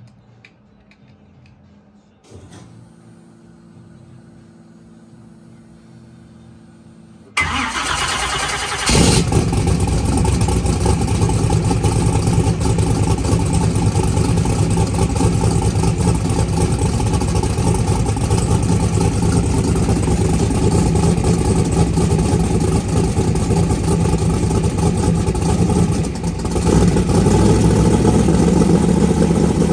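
Twin-turbocharged 1967 Chevelle engine starting: a click and a few seconds of steady low hum, then the engine cranks and catches about seven seconds in and runs loudly. Its sound dips briefly and comes back a little louder near the end.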